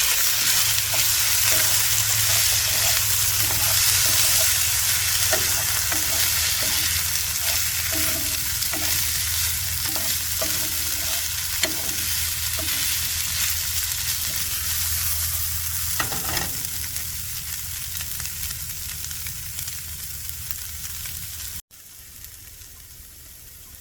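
Seasoned chicken breast sizzling in hot oil in a frying pan while it is stirred, the utensil scraping against the pan again and again. The sizzle slowly fades, then drops suddenly to a quieter sizzle near the end.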